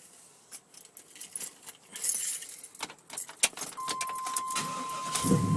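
Keys jangling and clicking in a Chevy pickup's ignition. About four seconds in a steady high warning tone comes on, and near the end the engine turns over and catches.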